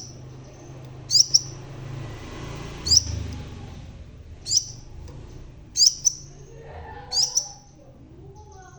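Sepah raja sunbird (crimson sunbird type) calling: short, sharp, high chirps with a quick upward sweep, repeated about every second and a half, some in close pairs.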